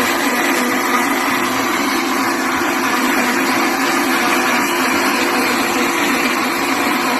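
Electric blender running steadily with a constant motor whir, blending watermelon.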